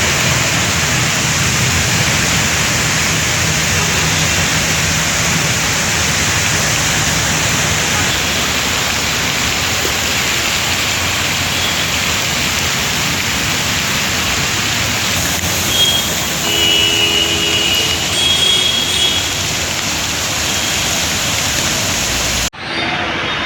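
Heavy rain falling steadily, mixed with the noise of traffic on a waterlogged road. A few short high steady tones sound about two-thirds of the way through, and the sound cuts off abruptly near the end.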